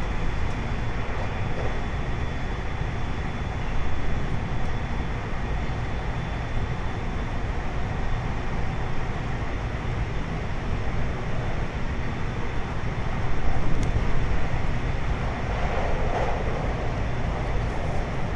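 Running noise heard inside a 521-series electric multiple unit under way: a steady rumble of wheels on rail, with faint steady high tones above it and a brief rise in loudness about thirteen seconds in.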